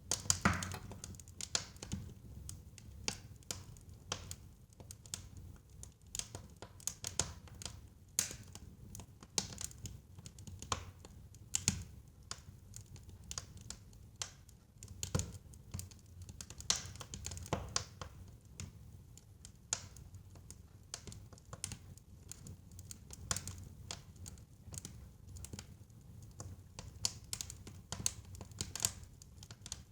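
Wood fire burning in a fireplace: irregular sharp pops and crackles over a low steady rumble of the flames, with a loud pop right at the start.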